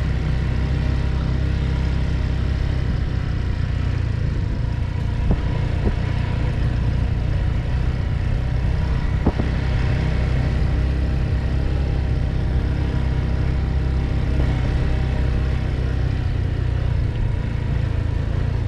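Motorcycle engine running steadily at an even pitch during a ride, with a heavy low rumble. Two brief knocks come about five and nine seconds in.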